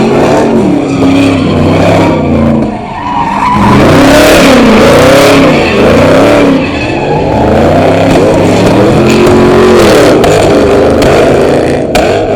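Car engine revving up and down again and again while its tyres spin and squeal on the pavement, loud throughout. A sharp crack comes near the end.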